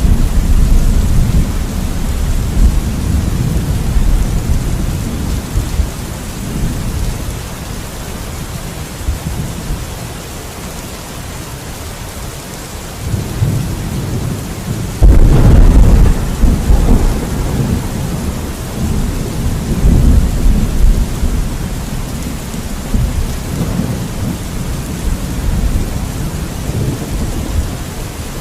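Thunderstorm: steady heavy rain with rolling thunder that fades over the first several seconds. About halfway through, a sudden loud thunderclap breaks, then rumbles away for several seconds under the rain.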